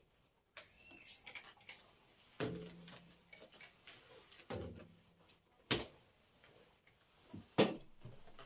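Scattered clicks and knocks of household things being handled, with two brief scraping sounds and two sharp knocks, the loudest near the end.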